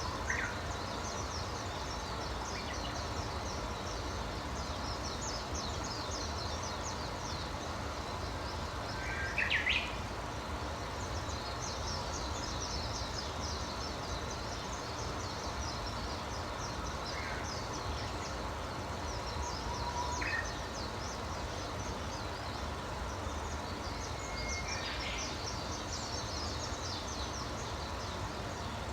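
Several small birds chirping and twittering, with a continual stream of quick high notes and a louder call now and then, the loudest about a third of the way in. A steady low background noise runs underneath.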